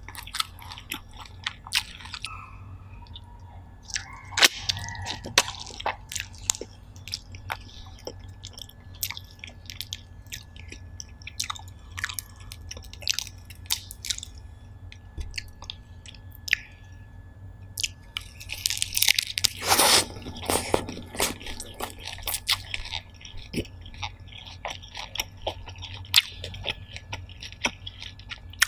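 Close-miked chewing of steamed lobster: wet mouth sounds with many small crunches and clicks, and lobster shell pulled apart by hand. A louder, denser crunching lasts about a second and a half about two-thirds of the way through.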